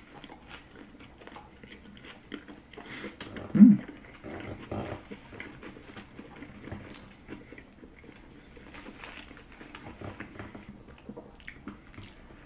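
Close chewing and mouth sounds of a person eating a soft, saucy sandwich, with scattered small clicks. One short, louder low hum-like sound comes a little over three and a half seconds in.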